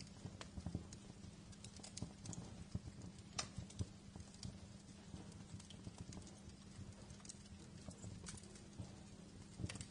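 Wood fire crackling in a fireplace: irregular snaps and pops, a few louder ones, over a low steady rumble.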